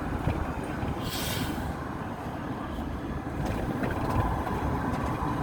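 Chevrolet Tahoe driving slowly, a steady low engine and road rumble, in a truck whose owner says it has lost third gear. A brief hiss about a second in.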